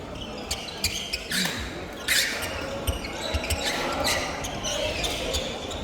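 Badminton play on an indoor court: irregular sharp knocks of racket strikes and footfalls, several a second, with a few brief shoe squeaks on the court floor.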